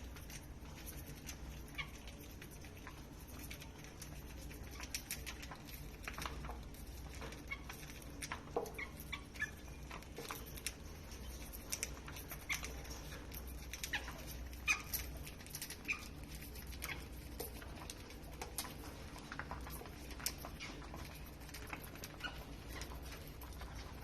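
Lovebirds giving short, scattered chirps, mixed with many small clicks and taps, over a low steady hum.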